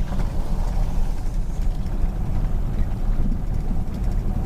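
Jeep WK2 Grand Cherokee driving, a steady low rumble of engine and tyres on the road.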